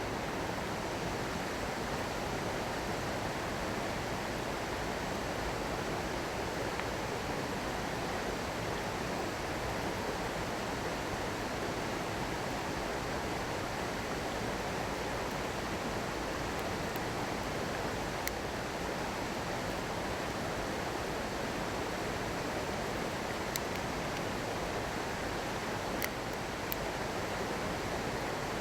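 Small stream running steadily. A few sharp pops from a crackling wood bonfire come through, mostly in the second half.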